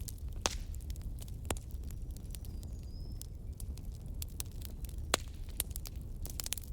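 Wood bonfire crackling: scattered sharp pops and snaps over a low steady rumble, with a few louder pops about half a second in, at about a second and a half, past five seconds, and a quick run of them near the end.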